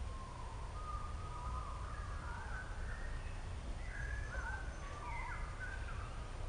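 A songbird singing outdoors, a run of short whistled, warbling phrases that glide up and down, busier in the second half. A steady low rumble runs underneath.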